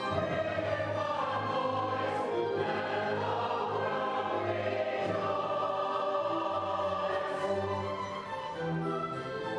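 Church choir singing with instrumental accompaniment, in long held chords.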